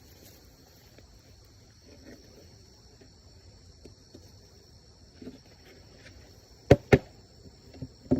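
Steady high-pitched chirring of insects, over which come two sharp knocks in quick succession near the end and one more knock at the close: wooden beehive boxes being knocked and set in place as a honey super goes onto the hive.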